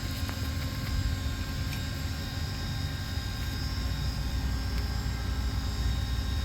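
Steady low rumble and hum of a motor or fan running in the background, with one or two faint clicks.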